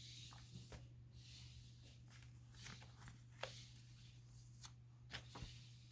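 Near silence: faint rustling and a few light clicks of paper being handled, over a steady low hum.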